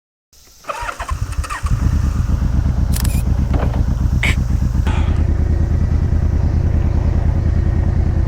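1990 Yamaha VMAX1200's V4 engine cranked by its starter for about a second, catching, then idling steadily. Two sharp clicks a few seconds in.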